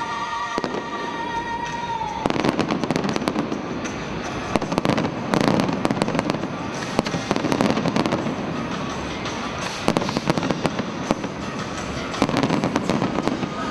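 Aerial fireworks going off in quick succession, a dense run of bangs and crackling from about two seconds in.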